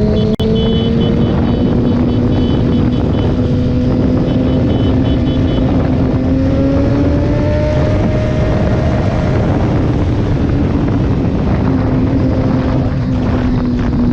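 Motorcycle engine running at a steady cruise, its pitch drifting slowly up and down, under heavy wind rush on the microphone. A string of quick high beeps sounds during the first few seconds.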